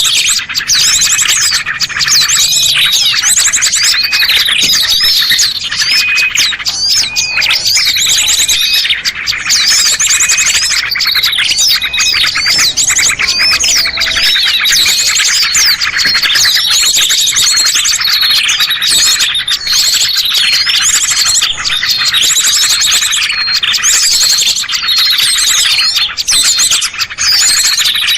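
Dense chorus of many small songbirds chirping, whistling and trilling at once, with rapid overlapping calls and no pauses: a bird-luring recording for small birds.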